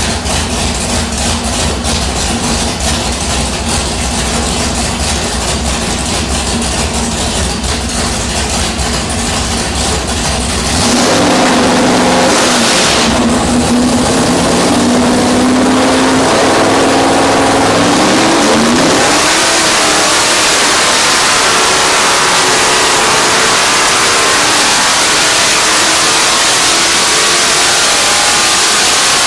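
Bored-and-stroked 426 Hemi V8 running on an engine dyno: a heavy, even low-speed beat, then about eleven seconds in it gets louder and its pitch climbs steadily for several seconds as the revs sweep up, ending in a loud, sustained high-rpm run.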